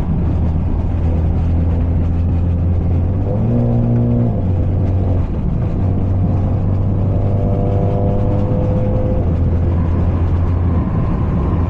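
Straight-piped, catless BMW 530 exhaust droning steadily while cruising. The revs lift briefly about three and a half seconds in and drop back, then rise gently again a few seconds later.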